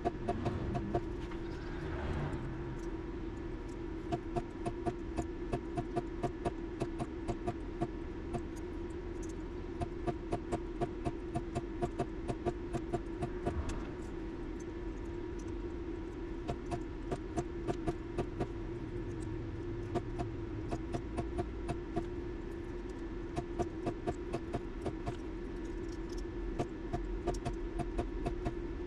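A steady machine hum with sharp clicks several times a second throughout.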